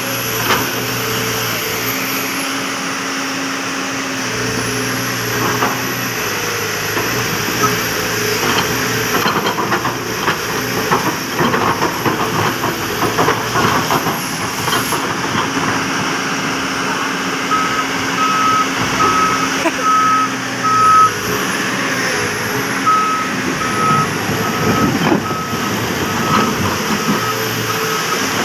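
Heavy machine's diesel engine running, its pitch shifting with load. Partway through, a backup alarm starts beeping steadily at about two beeps a second, stops briefly, then starts again.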